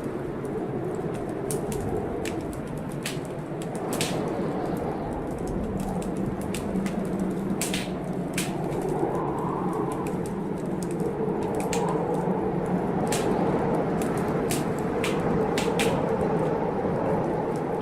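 Wood fire in a fireplace crackling, with scattered sharp pops, over the steady rushing noise of a storm that swells and eases.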